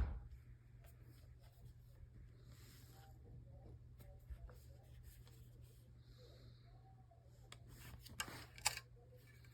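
Faint handling noises: scattered light clicks and rustles, a few louder ones near the end, over a low steady hum.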